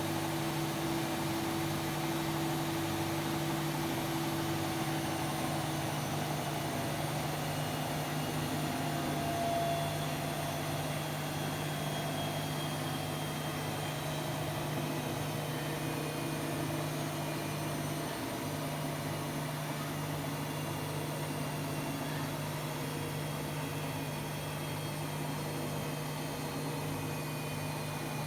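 Hotpoint-Ariston Aqualtis washer-dryer running, a steady machine hum with a constant low tone; a higher tone in the hum fades out about six seconds in.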